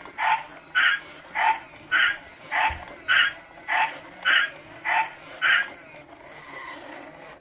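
A toy car's electronic sound effect from its small speaker: a short, bark-like beep repeated about ten times, a little under twice a second, stopping about five and a half seconds in.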